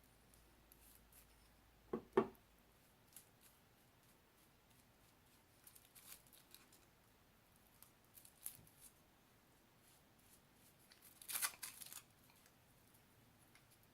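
Quiet handling sounds of string being wound and glued around a plastic-film-covered bowl: a pair of light knocks about two seconds in, scattered small clicks and rustles, and a brief louder rustle of plastic near the end.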